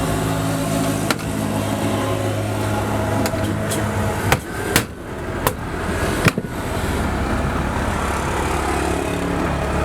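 A steady low motor hum, its pitch settling a little lower about two-thirds of the way through, with several sharp knocks in the middle.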